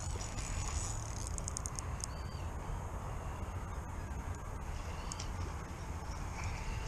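Birds calling faintly now and then over a steady low rumble of wind on the microphone.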